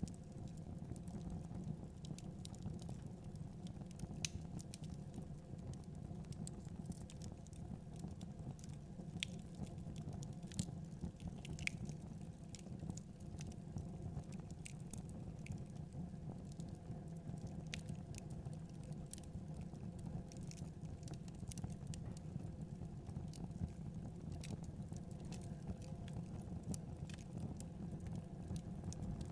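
Crackling wood fire in a fireplace, with irregular sharp pops and snaps, over a steady low rumble of blizzard wind.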